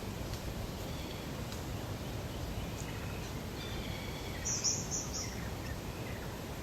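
Natural lakeside ambience: a steady low background rush with birds calling faintly, and a short cluster of high chirps a little past the middle.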